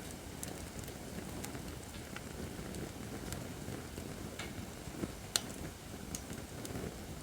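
Acacia firewood burning in a campfire stand: a steady low rush of flames with scattered crackles and pops, the sharpest pop about five seconds in.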